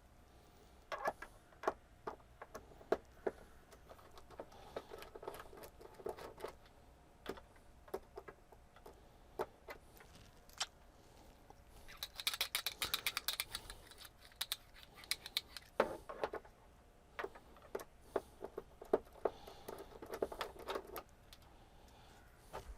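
Hand work on a TV back panel: scattered sharp clicks and taps of screws, a screwdriver and plastic being handled, with a dense run of rattling clicks about halfway through.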